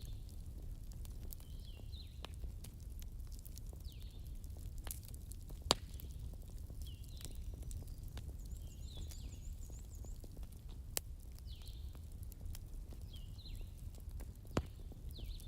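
Campfire burning with a low steady rumble and scattered crackles and sharp pops, the loudest pop about six seconds in. A short high chirping call from a small animal repeats every second or two in the background.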